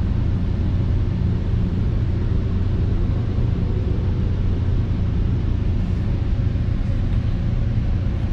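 Steady low rumble of a Metra commuter train, heard from inside the passenger car.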